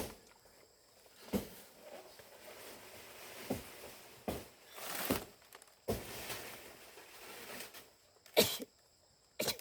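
Scattered sharp knocks, about seven over the stretch and irregularly spaced, over a rustling hiss; the loudest knock comes near the end.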